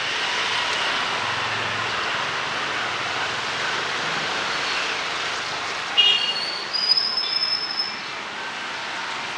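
Steady hiss of rain and traffic on a wet street. About six seconds in, a sudden high-pitched squeal rings out, then a single high tone holds for about a second.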